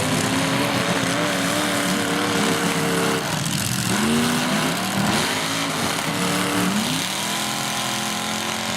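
Demolition derby cars' engines revving, their pitch rising and falling again and again over a dense wash of noise.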